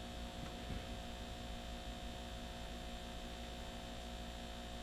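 Steady electrical mains hum with a faint hiss, and a faint light tap about a second in.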